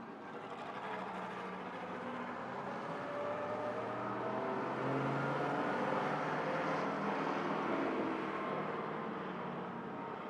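Straight-eight engine of a 1930s race car running under way. It grows louder over the first few seconds, holds, then eases off near the end.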